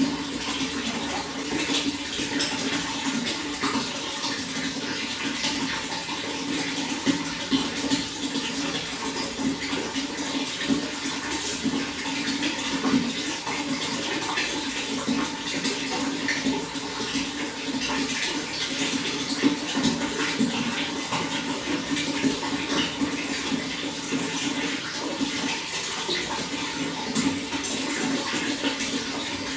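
Running water flowing steadily and evenly, with many small splashes.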